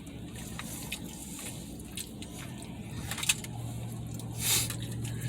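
Eating sounds: scattered small clicks and wet smacks of chewing and handling food, over a low hum, with a steadier low hum coming in about three and a half seconds in and a short rustle just after.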